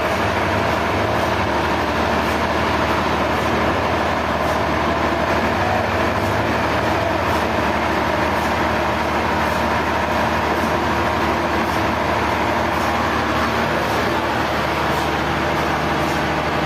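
Sawmill machinery running steadily: a loud, even mechanical din with a constant hum and no breaks.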